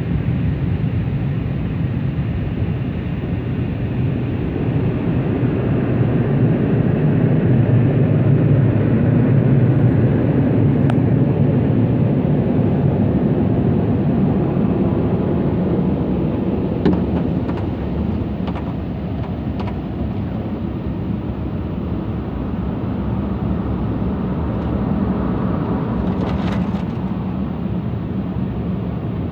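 Tammermatic T700 rollover car wash running, heard from inside the car: a steady, loud machine-and-spray rush that swells and eases as the gantry moves, with a few short clicks and knocks in the second half.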